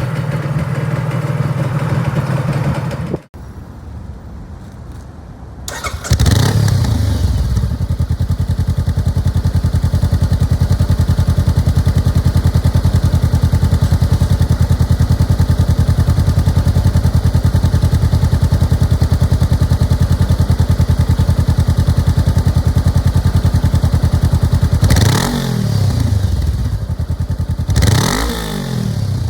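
Motorcycle fitted with an aftermarket exhaust muffler starting up about six seconds in and settling into a steady, evenly pulsing idle, then revved twice near the end, each rev rising and falling back.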